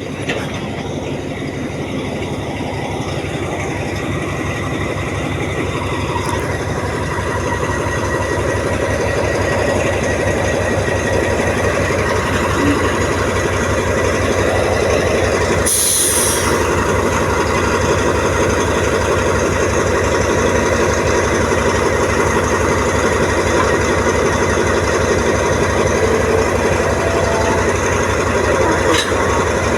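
Diesel locomotive engine running with a steady low throbbing, slowly growing louder. About halfway through comes a short hiss of released air.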